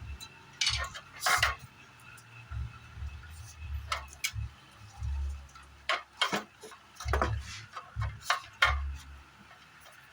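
Irregular sharp metallic clicks and clinks, about a dozen, mixed with dull low thumps: small tools and parts being handled.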